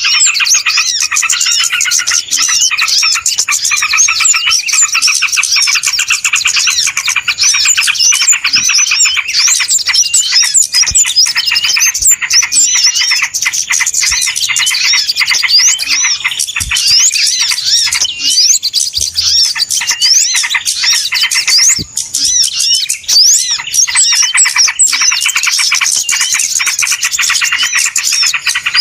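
Dense, unbroken chorus of many small birds chirping and twittering at once, high-pitched and overlapping, a bird-lure recording of noisy small birds played to draw other small birds in.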